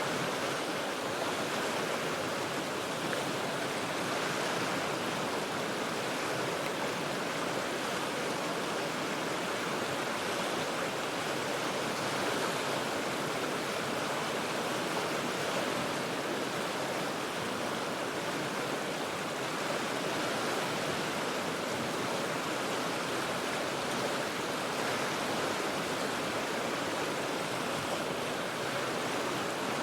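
The Cheat River rushing steadily over rocks, a constant, even roar of flowing water.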